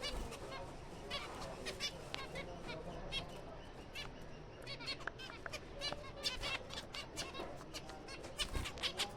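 A colony of zebra finches calling, with many short chirps overlapping, several a second.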